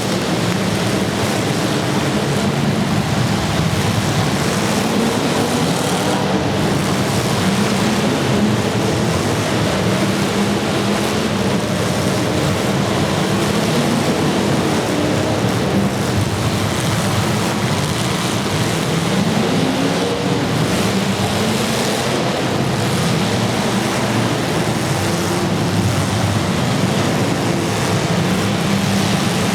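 Demolition derby car engines running and revving, their pitch rising and falling, over a steady loud wash of noise.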